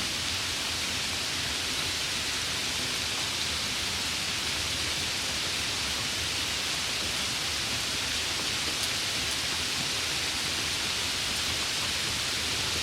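Steady rain, a dense even hiss that stays constant throughout.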